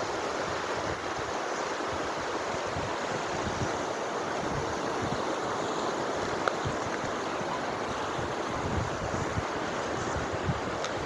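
Sea surf washing steadily onto the shore, with wind gusting on the microphone in low rumbles.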